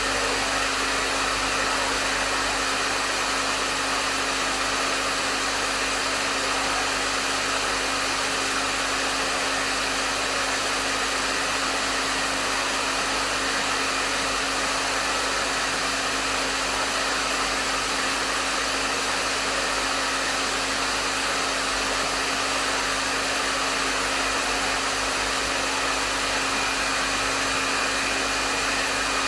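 Hair dryer running steadily on a medium setting: an even rush of blown air over a steady motor hum, with no changes.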